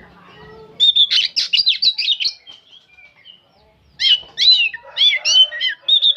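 Oriental magpie-robin singing in two rapid bursts of sharp, quickly sweeping chirps and whistles, about a second and a half apart.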